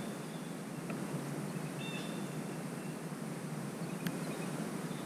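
Steady low outdoor rumble with a bird chirping briefly about two seconds in, and a faint click or two.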